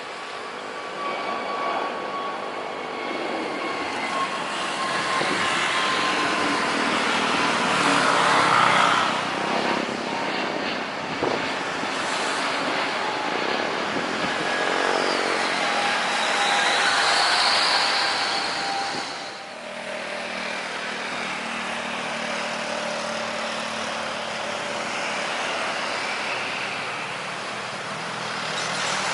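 Jet airliner engines running: a steady engine roar with a high whine swelling in the middle, dropping briefly about two-thirds of the way through.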